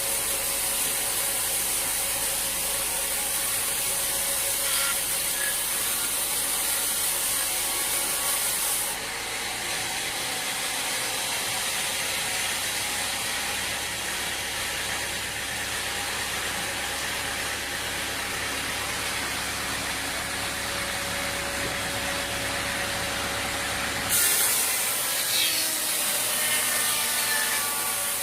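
Sawmill machinery running with a steady mechanical noise and hiss; the sound changes abruptly about nine seconds in and again near the end.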